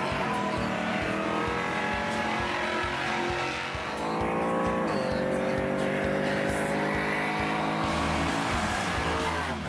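Car engines accelerating hard from a standing start in a street drag race between a GMC Syclone pickup and another car, the pitch climbing and dropping back at each gear change, about three shifts, then holding and easing off near the end.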